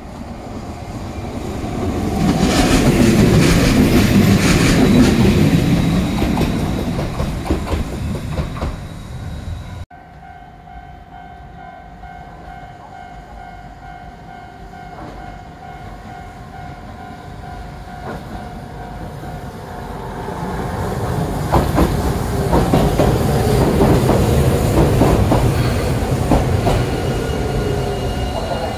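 Hiroden Miyajima Line trains pulling into a station: one train runs in with its wheels rumbling and clacking, the sound building and fading. After an abrupt cut comes a quieter steady hum with a few even tones, then a second train pulls in and its rumble builds and eases off.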